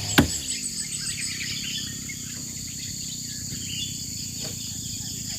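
Forest ambience: a steady high-pitched insect drone with scattered bird chirps. A single sharp knock sounds just after the start.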